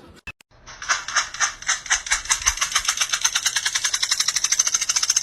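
Rapid, regular clicking that starts about a second in at a few clicks a second and speeds up to about ten a second.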